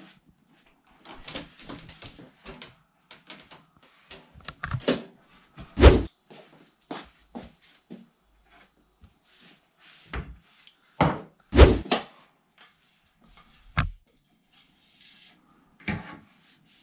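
Kitchen cupboard door being opened and shut amid handling noise: a string of knocks and clacks, with two loud thuds about 6 and 11.5 seconds in.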